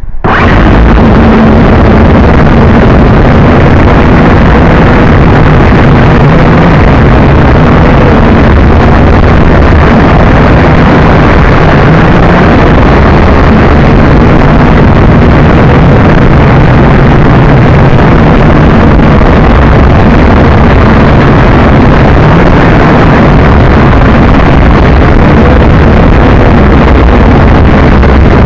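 Wind buffeting the JJRC H12C quadcopter's onboard camera microphone, very loud and distorted, starting suddenly. Underneath it runs a steady hum from the quadcopter's motors and propellers.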